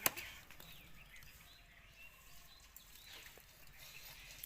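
A single sharp chop or knock right at the start, then faint bird chirps: a few short calls that rise and fall in pitch over a quiet background.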